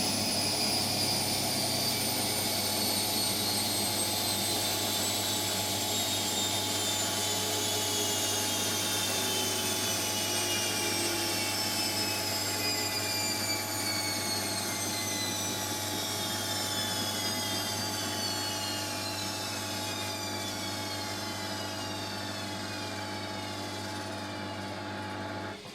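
Hotpoint Extra WMXTF742K washing machine winding down from a high-speed spin: the motor's whine falls steadily in pitch over a steady low hum. The sound cuts off sharply near the end.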